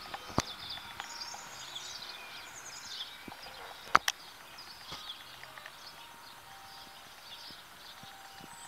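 Songbirds chirping and twittering, busiest in the first few seconds. A sharp click comes near the start and a louder one about four seconds in.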